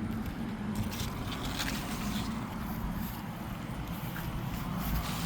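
Wind rumbling on an outdoor microphone, with a few faint rustles.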